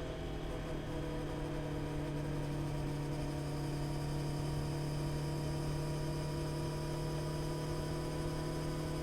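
Honda CB650R inline-four engine running at steady revs while cruising, one even hum that holds the same pitch throughout.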